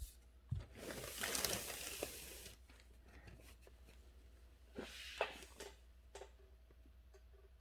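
A sheet of paper rustling as it is handled, followed a couple of seconds later by a few light knocks.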